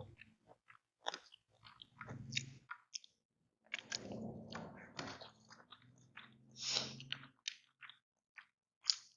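A person chewing and biting a meal of smashed fried chicken with raw vegetables close to the microphone. There are irregular crunches and wet mouth clicks, busier around the middle and again near the end.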